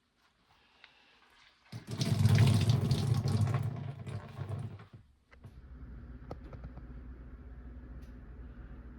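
Water gushing loudly for about three seconds and stopping abruptly, followed by a steady, quieter hiss.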